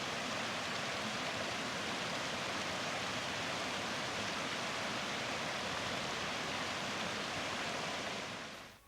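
Steady rushing of a mountain waterfall, an even hiss with no pitch or rhythm, fading out near the end.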